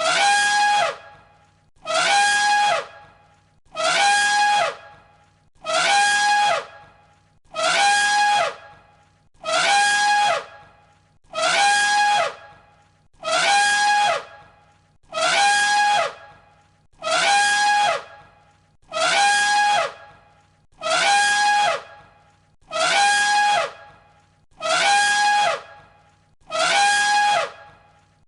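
Elephant trumpeting, the same call repeated about every 1.8 seconds as an identical loop. Each call is about a second long, a steady high note that drops in pitch at the end.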